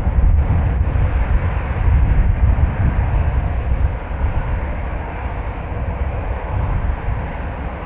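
Jet airliner engine noise, a steady rush with a faint whine, mixed with gusty wind rumbling on the microphone. It eases a little about halfway through.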